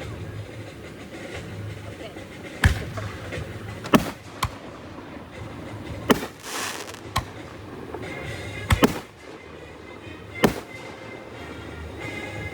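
Fireworks exploding: about eight sharp bangs spread irregularly, one about 6 seconds in followed by a second of crackling.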